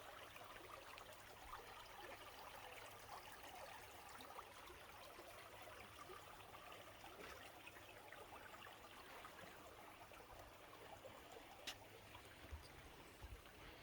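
Faint, steady trickle of a small stream of running water, with a single sharp click near the end.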